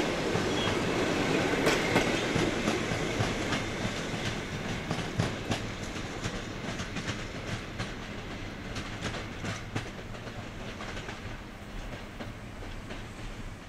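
Passenger coaches of a departing train rolling away over the rail joints and points, wheels clicking irregularly over a steady rumble, the sound fading steadily as the train recedes.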